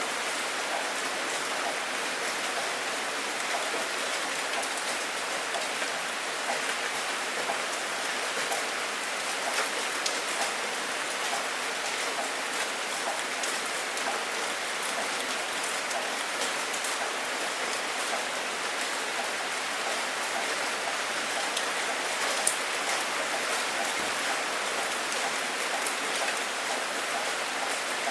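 Steady rain falling, with many separate drop hits ticking through the even hiss. No thunder is heard.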